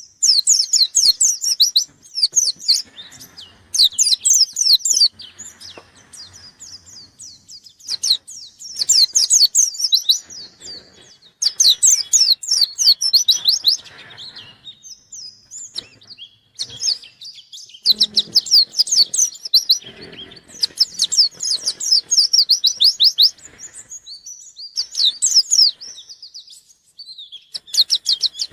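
A white-eye (pleci) singing hard in its excited, rival-seeking song: fast bouts of high, rapid chirping trills, each lasting one to three seconds, separated by short pauses.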